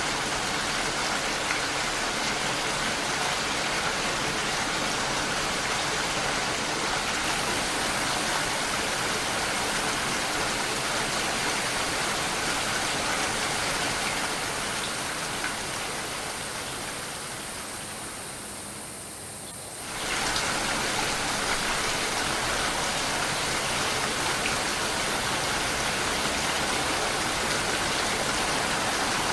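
Steady rain, an even hiss of falling drops. About two-thirds of the way in it fades down over several seconds, then cuts back in abruptly at full strength.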